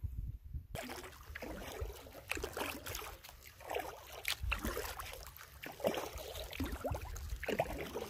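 Canoe paddle strokes in the water, with irregular splashing and dripping from the paddle, over a low rumble.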